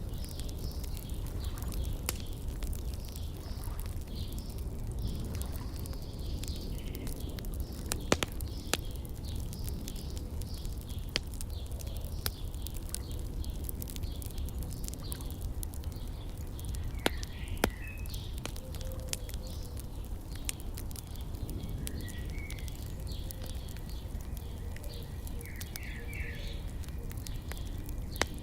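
Wood fire crackling with scattered sharp pops, a few louder than the rest, over a low steady rumble, while small birds chirp and twitter throughout.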